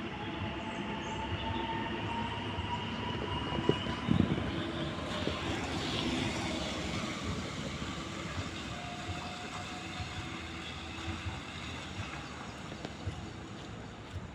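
Electric train running along the tracks at a station, with a steady rumble of wheels and a whine that rises slowly in pitch over the first few seconds, as when it gathers speed.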